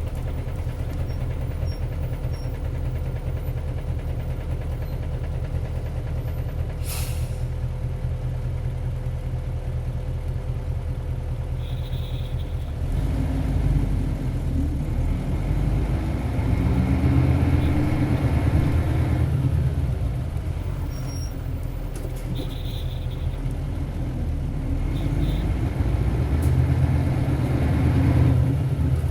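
Isuzu Cubic bus's 8PE1-S V8 diesel idling steadily, with a short sharp hiss of air about a quarter of the way in. Then the engine revs up hard as the bus pulls away, its pitch rising, falls back at a gear change a little past the middle, and climbs again near the end.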